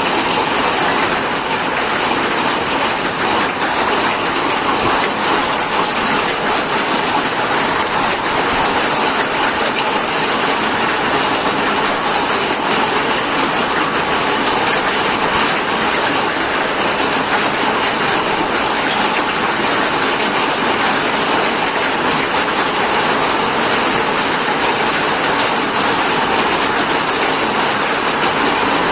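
Hailstones pelting down in a hail storm: a loud, dense, steady clatter of countless small impacts.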